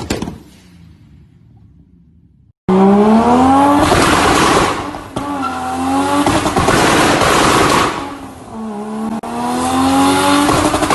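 Car exhaust crackling ends at the start and the engine drops to a low idle; then, from an abrupt cut about two and a half seconds in, a car engine revs hard in three pulls, its pitch climbing each time.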